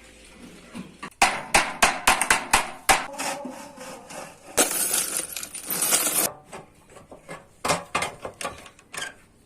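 Hammer blows on a metal bread-baking pan being formed by hand, in quick irregular runs of sharp strikes. A harsh, rasping noise lasting under two seconds comes in the middle.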